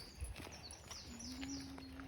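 A small bird singing a quick series of high, falling chirps, with a low steady hum joining about a second in.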